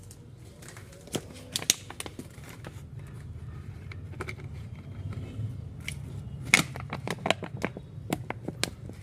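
Irregular sharp clicks and taps, bunched in quick runs, over a low steady hum.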